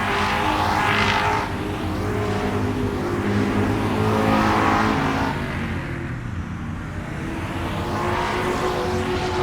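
Car engine running, its pitch stepping up and down, with a rush of noise that swells and fades three times, about every three and a half seconds, like cars going by.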